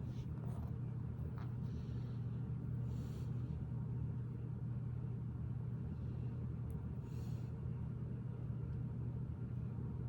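Steady low hum of background room noise, with a few faint clicks and soft rustles from Lego bricks being handled.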